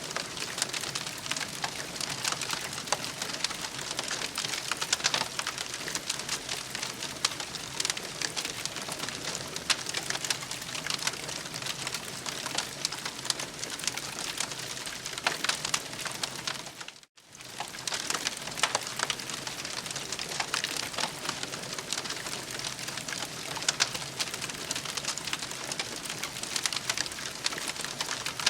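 Campfire crackling, with a steady patter of small pops and snaps. About seventeen seconds in the sound drops out for a split second and then resumes.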